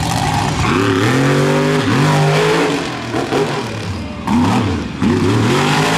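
Monster truck's V8 engine revving hard through a freestyle run. The pitch climbs about half a second in, holds high, sags around the three- and four-second marks, then shoots back up twice near the end.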